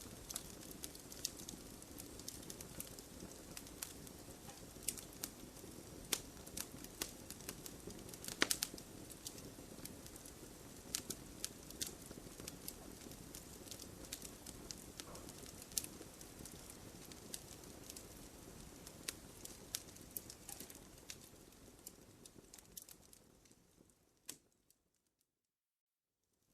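Wood campfire crackling, with frequent sharp pops and snaps over a soft steady hiss. It fades out near the end into a moment of dead silence.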